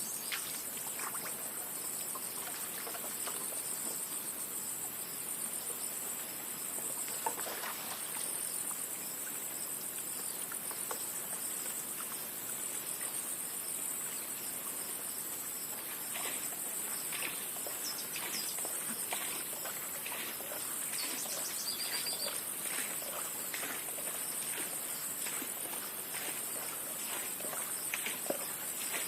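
Steady high-pitched insect chorus, with scattered faint clicks and a brief whistle a little after the middle.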